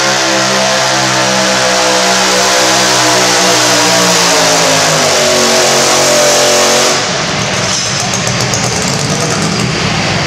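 V-twin engine of a garden pulling tractor running hard at high revs, its pitch slowly dropping. About seven seconds in, the sound abruptly changes to a rougher, noisier engine sound and gets a little quieter.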